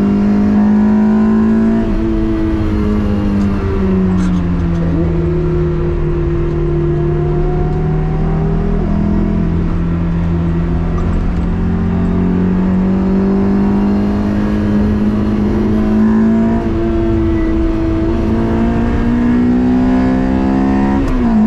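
Third-generation Toyota MR2's swapped-in 2ZZ 1.8-litre four-cylinder engine pulling hard on track. Its note drops in pitch twice in the first few seconds, then climbs slowly and steadily under load.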